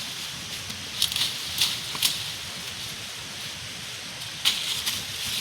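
Steady rain hiss with a few louder, sharp drops or taps striking close by, about a second, two seconds and four and a half seconds in.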